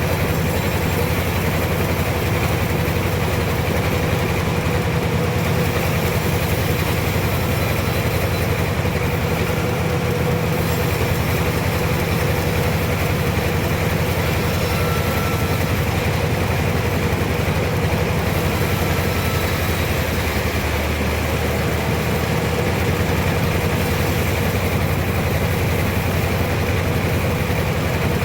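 Sawmill machinery running steadily: a constant low engine hum with a thin steady whine above it, unchanging throughout.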